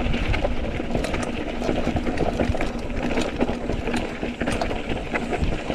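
Mountain bike rolling fast over rough, rocky trail: wind buffets the microphone, and the chain and frame rattle and knock with many small clicks over the bumps.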